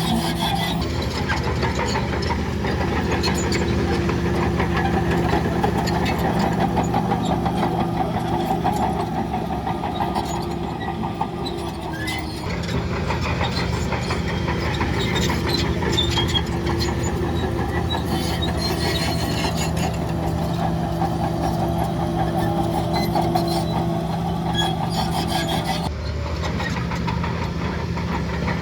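Heavy diesel engine of earthmoving machinery running steadily, with metallic clanks and rattles over it. The engine note changes about twelve seconds in and again near the end.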